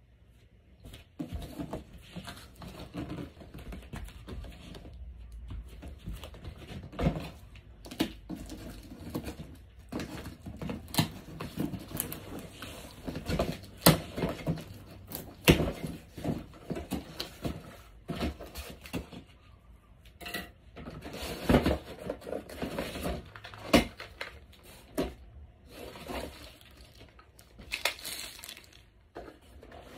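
Cardboard box and packaging being opened and handled: irregular tearing, crinkling and rubbing, broken by sharp knocks and clicks.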